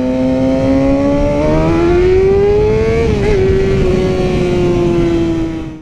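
Motorcycle engine running under way, its pitch rising over the first three seconds as it speeds up, then easing back a little and holding steady, over a low rush of wind noise. The sound cuts off abruptly at the end.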